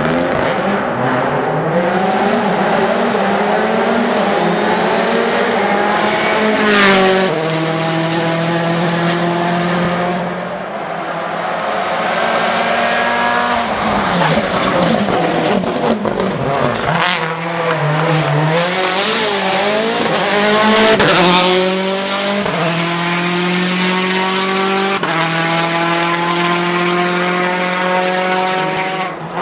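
Citroën C4 WRC's turbocharged four-cylinder engine at full throttle, climbing in pitch through gear after gear with a quick drop at each shift. There are sharp cracks at several of the shifts.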